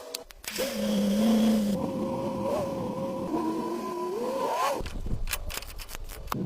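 Small electric motor running with a steady, wavering whine that rises in pitch just before it stops, followed by a run of clicks.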